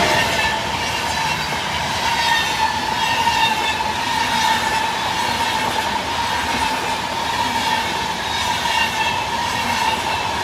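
Intercity passenger train hauled by an EU44 Husarz (Siemens Taurus) electric locomotive running past, wheels rolling over the rails. A steady high whine holds throughout.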